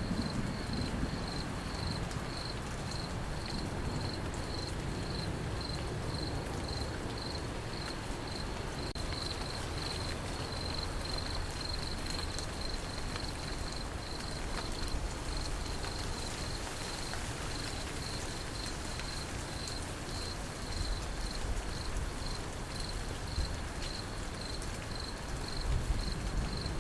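Crickets chirping in a steady, even rhythm over a steady patter of rain, with the tail of a thunder rumble dying away at the start.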